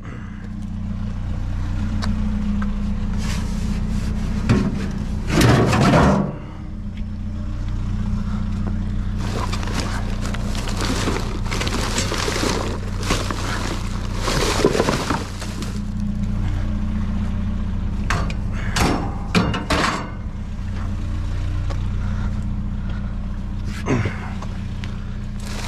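Clattering, scraping and knocks of metal and junk being moved around in a dumpster, in several bursts, over a steady low engine hum.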